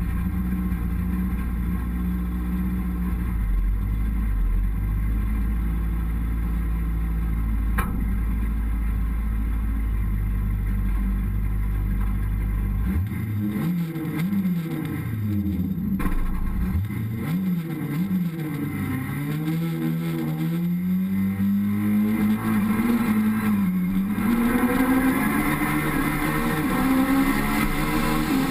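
Peugeot 306 Maxi rally car's four-cylinder engine idling steadily at a stage start, then blipped up and down a few times from about halfway. It then launches and accelerates away, the pitch climbing and dropping back at each upshift.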